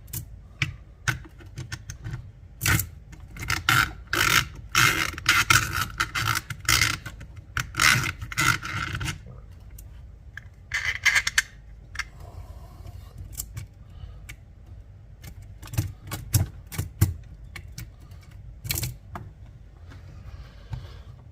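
Handling noise from a small cordless chainsaw that is not running: irregular clicks, knocks and short scrapes as its bar, chain and tensioning parts are worked by hand. The sounds come thick over the first nine seconds or so, then thin out to scattered clicks.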